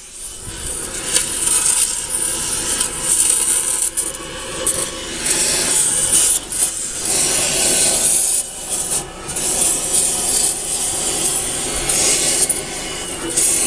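A saw cutting through a Dodge Neon's metal exhaust pipe: a steady, loud scraping that dips and picks up again.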